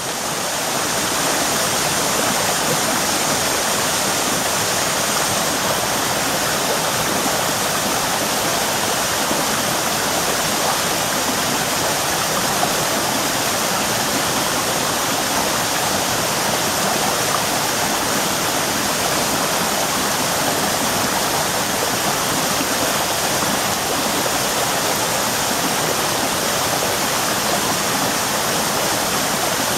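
Waterfall on a mountain creek: steady rushing and splashing of falling water.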